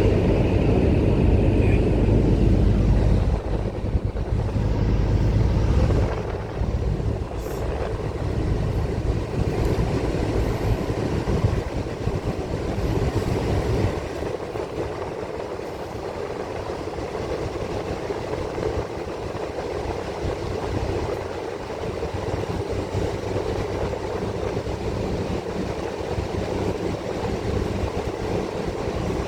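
Bus driving, heard from inside: engine and road noise, with a heavy low rumble for the first few seconds, then a steadier, lighter drone.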